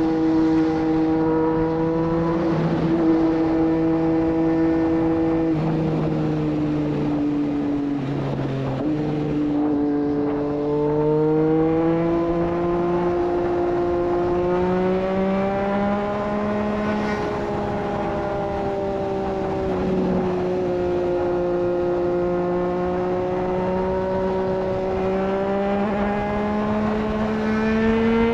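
Triumph Street Triple 765 RS inline-three with a Racefit Growler full exhaust system, cruising at highway speed. The engine note holds steady, steps down and dips briefly about a third of the way in, then climbs slowly and eases off again, over a constant rush of wind and road noise.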